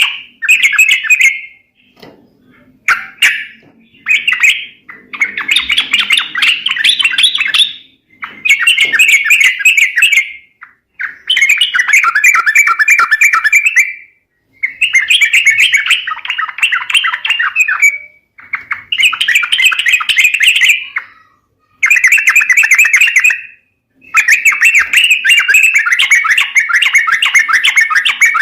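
Yellow-vented bulbul (trucuk) calls: bursts of rapid, bubbling chatter, each one to three seconds long, repeated with short pauses. It is the kind of lure call used to draw wild bulbuls.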